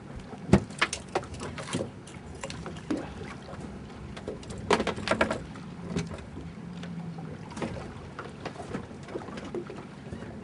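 Small-boat sounds on open water: scattered knocks and taps against the hull over a low steady hiss, with a quick cluster of taps about halfway through.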